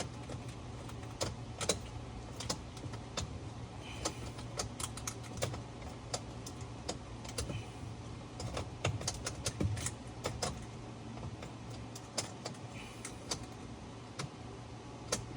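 Scattered light clicks and clinks of keys and small parts being handled, irregular and spaced apart, over a steady low hum.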